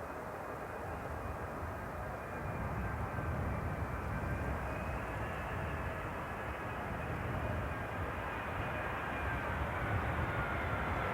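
Jet airliner engines heard from a distance: a steady low noise with a faint high whine, growing slowly louder and the whine dropping slightly in pitch near the end.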